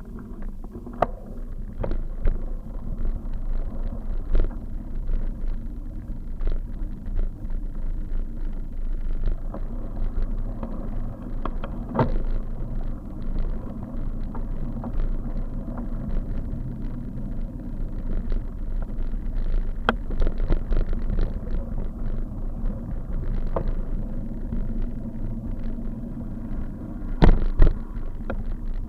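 Steady road rumble and rattle of a bicycle being ridden, with frequent clicks and knocks from bumps and a couple of louder knocks near the end.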